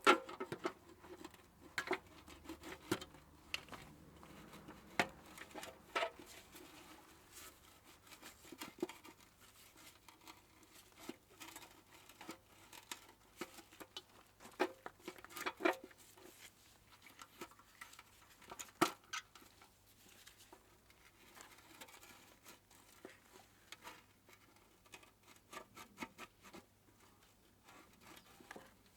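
Irregular light clicks, taps and knocks of small parts and hand tools being handled during bench repair work on a moped, with a few sharper knocks right at the start and about 19 seconds in.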